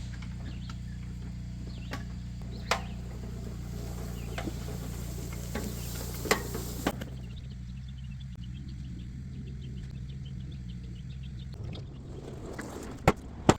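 A small engine running with a steady low hum, with a few sharp clicks or knocks on top.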